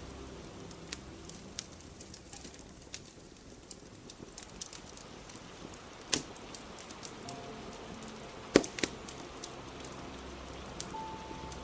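A fire crackling with scattered sharp pops over the steady hiss of rain; the loudest pops come a little past halfway and again about three-quarters of the way through.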